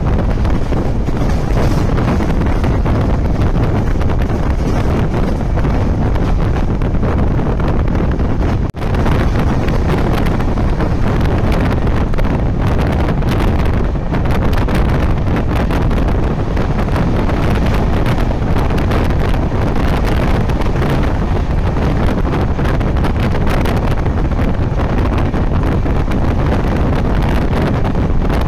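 Wind buffeting the microphone over the steady rumble of an LHB-coach passenger train running along the track, heard from an open coach door. The sound breaks off for an instant about nine seconds in.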